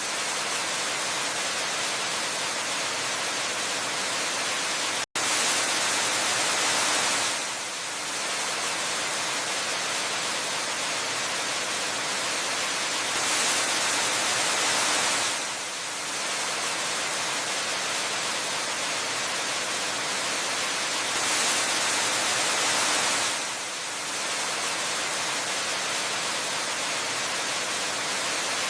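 Steady rushing waterfall, mostly hiss with little low rumble, swelling slightly louder about every eight seconds. The sound cuts out for a split second about five seconds in.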